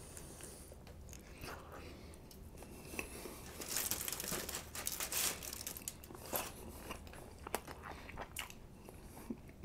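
Close-miked chewing of a mouthful of burrito: small clicks and smacks. About three seconds in there is a louder stretch of aluminium foil crinkling as the burrito is handled over the foil and set down on it.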